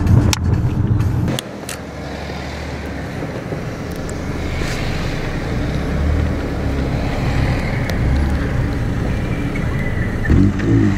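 Car engine running at low revs amid meet traffic, louder for the first second and a half, then a steadier low rumble that swells and fades through the middle.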